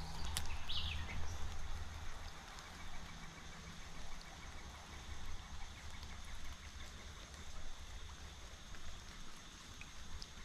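Creekside outdoor ambience: a steady wash of water noise with a low rumble, a faint high insect-like hum, and a short falling bird chirp about half a second in.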